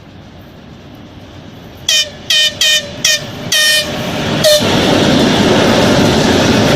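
A 2TE116U diesel locomotive approaching and sounding its horn in about six short, rapid blasts, the last one clipped. It then passes close by with a loud, steady rush of engine and rail noise.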